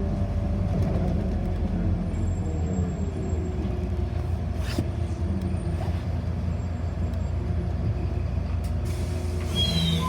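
Cabin noise inside a city bus: the steady low drone of the bus's drive and road noise. A faint whine falls slowly in pitch over the first few seconds, and there is a brief hiss about halfway through.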